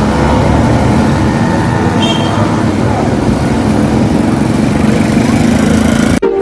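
Steady rumble and hiss of road traffic on rain-soaked streets, cutting off abruptly near the end.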